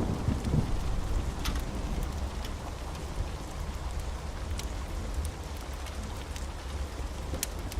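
Wood fire burning in a fireplace: steady crackling over a low rumble of flame, with a few sharp pops.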